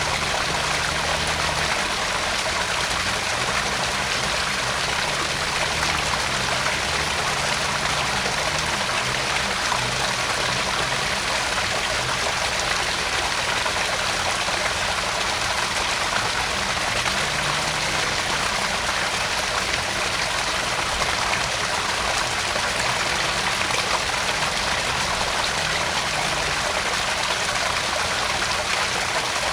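Backyard garden pond waterfall: water splashing and trickling steadily into the pond.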